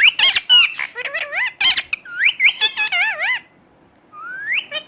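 Talking parrot making rapid squeaks, chirps and whistles that slide up and down in pitch, falling quiet for about half a second past the three-second mark, then giving a rising whistle near the end.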